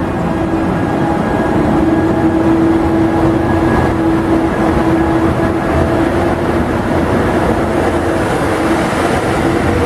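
FS class E.401 electric locomotive passing close by, hauling Intercity coaches: a steady electric whine over the rumble of wheels on the rails.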